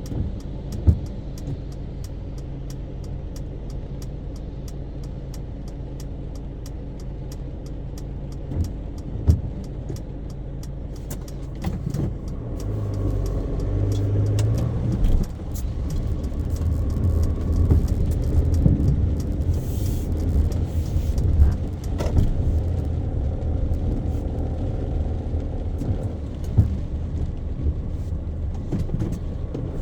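Car driving in city traffic: low engine and road rumble with occasional sharp clicks, growing louder about twelve seconds in.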